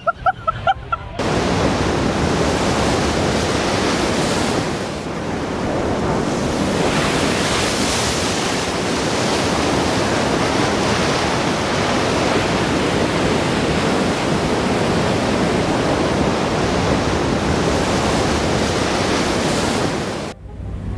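Loud, steady rush of surf, setting in about a second in and dropping away just before the end.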